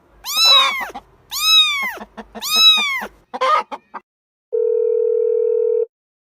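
Three pitched animal calls, each rising then falling in pitch, followed by a couple of short clicks. Then comes a steady electronic beep, held for about a second and a half before cutting off.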